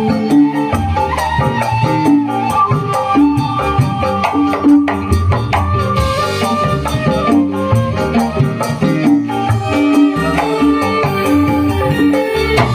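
Dangdut koplo music played by a band: a busy drum and shaker rhythm under a repeating melody line.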